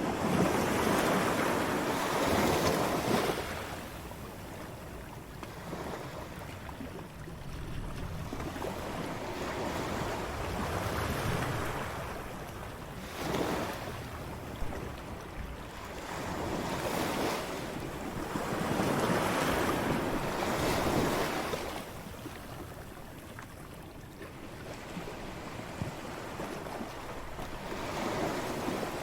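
Ocean waves breaking on a shore, the surf swelling and ebbing in repeated surges every few seconds, the strongest right at the start and another around two-thirds through.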